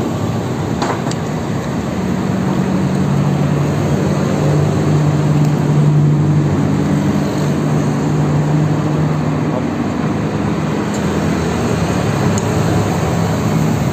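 Road traffic noise with a heavy vehicle's engine running close by, its low hum swelling toward the middle and easing off. There are a couple of light clinks of cutlery on a plate near the end.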